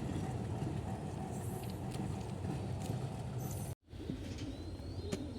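Diesel locomotive engine idling, a steady low rumble. The sound cuts out for an instant near the end.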